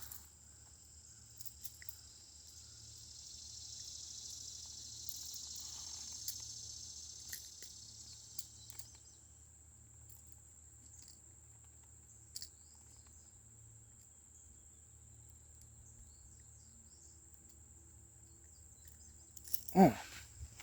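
Insects buzzing steadily, with a high-pitched buzz that swells for several seconds and then fades away. Near the end a person's voice gives a short, loud exclamation.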